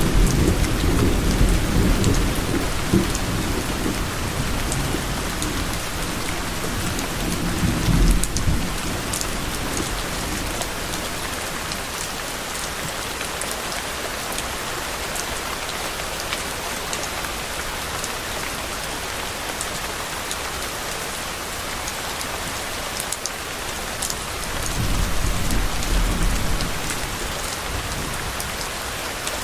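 Steady rain falling, with scattered drops ticking close by. Low, distant thunder rumbles through the first several seconds and rises again briefly near the end.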